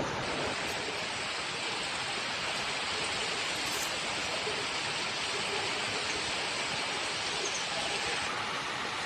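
Heavy rain falling in a steady hiss, a little softer near the end.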